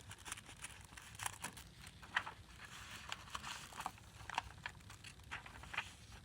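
Faint, scattered rustling and crinkling of paper as journal pages, tags and envelopes are handled and turned, with small irregular clicks.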